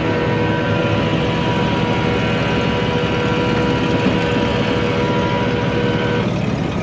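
Heavy truck engine running steadily with a low rumble, under a steady whine that cuts off about six seconds in.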